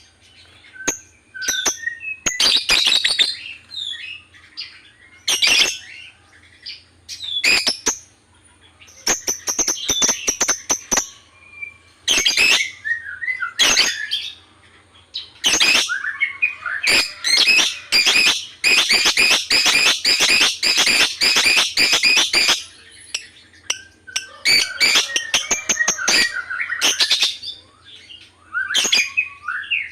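Lovebird chirping and squawking in short, sharp, high calls. About halfway through, a long rapid run of chirps lasts several seconds.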